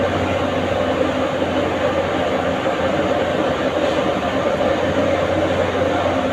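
A steady machine hum with a rushing noise, unchanging throughout.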